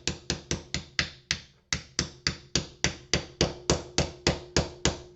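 A hammer repeatedly smashing porcelain lamp holder shells on a workbench, breaking the porcelain off the brass inside. The blows are quick, sharp and evenly spaced, about three to four a second, with one short pause near the start.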